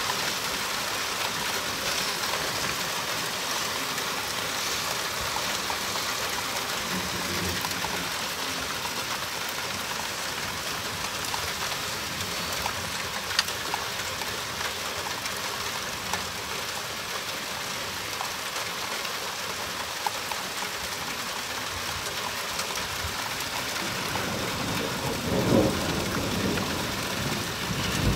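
Steady rain falling during a thunderstorm, an even hiss, with a brief low rumble near the end.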